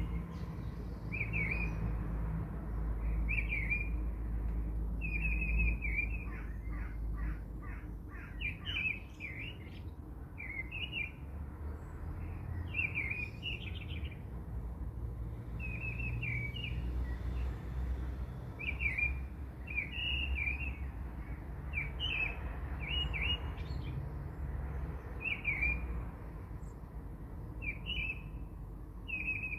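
A small bird chirping in short repeated phrases every second or two, with a quick trill about seven seconds in, over a low steady hum.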